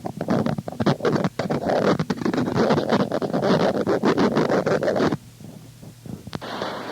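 Harsh noise music: a dense, crackling, scraping texture of rapid clicks over rough noise. It cuts out abruptly about five seconds in, leaving a quieter hiss with a single sharp click near the end.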